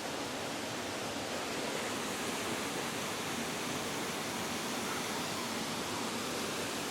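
Steady rush of a waterfall and the rapids flowing out below it, an even wash of water noise with no breaks.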